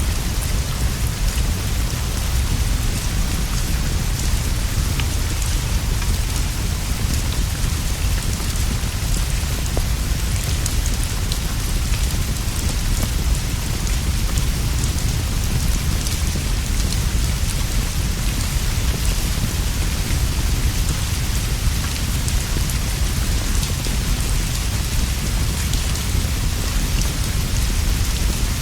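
Steady rain falling on leaves and a straw roof, over a deep continuous low rumble, with faint scattered ticks through it.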